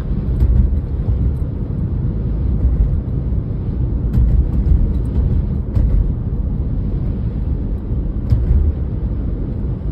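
Car driving on a snowy road, heard inside the cabin: a steady low rumble of tyres and engine, with a few faint ticks.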